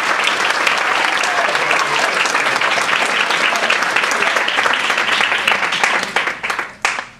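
Banquet audience applauding a named prize winner, a dense steady clapping that thins to a few scattered claps and dies away near the end.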